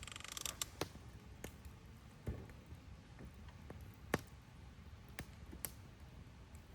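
Burning firewood crackling and popping in a campfire: irregular sharp snaps, a quick run of them at the start and a louder pop about four seconds in, over a faint low rumble.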